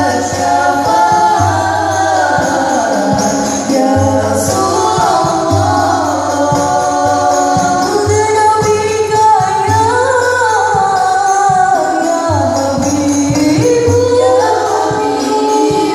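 Sholawat sung in long, gliding melodic lines over rebana frame drums with jingles beating a steady rhythm.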